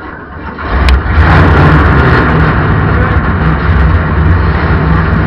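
Race car engines running loud; the rumble swells about a second in and then holds steady.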